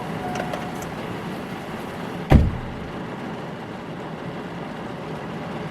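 Heavy rain falling steadily on a car, with one loud car door slam about two seconds in. A faint steady tone sounds briefly near the start.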